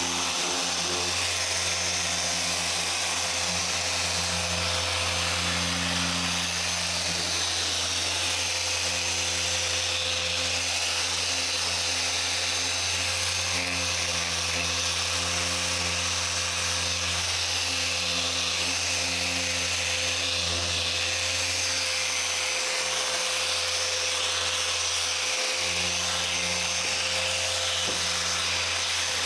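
Dual-action car polisher running steadily with a coarse wool pad working compound into the paint, a constant motor whir and pad hiss.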